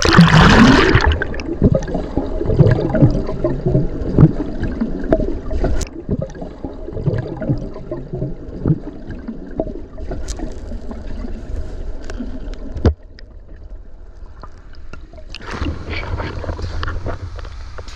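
A loud splash as a swimmer goes under in a deep pool, then muffled gurgling and bubbling of water with scattered small clicks. Near the end there is another brighter, splashy burst.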